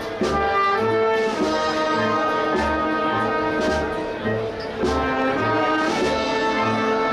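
Processional brass band playing a Holy Week march: sustained brass chords over a steady bass-drum beat, with occasional cymbal crashes.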